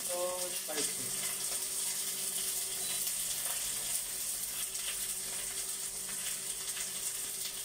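Potatoes with garlic and ginger frying in a wok: a steady sizzle with faint crackling, over a faint steady hum.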